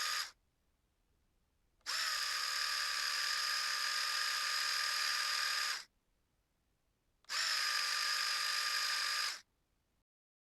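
Electric shaver motor running, played back pitched down one octave: a steady hum with several fixed tones. It comes in three takes: one stops just after the start, one lasts about four seconds, and one about two, each with dead silence between.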